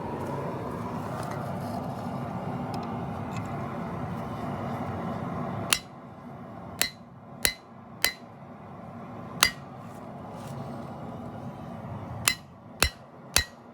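Forge running with a steady rushing noise that stops about six seconds in. It is followed by eight irregular hammer blows on an anvil, each with a bright metallic ring, as hot steel from a file is forged into a knife blade.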